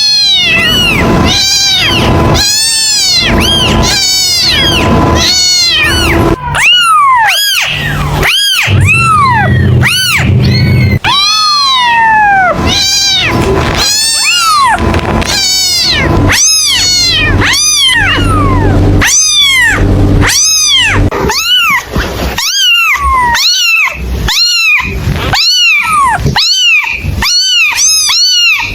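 Kitten meowing over and over in high, rising-and-falling cries, about one a second, coming faster and shorter near the end. A low steady hum runs beneath some stretches.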